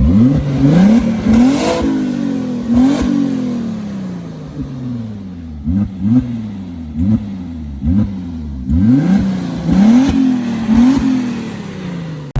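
Twin-turbo Audi V6 revved repeatedly, each blip climbing quickly and then sliding back down. A few longer revs come first, then a run of quick short blips through the second half.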